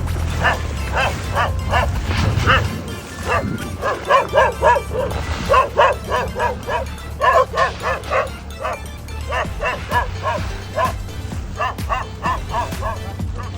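A dog barking and yapping in quick, repeated short barks over a low steady hum.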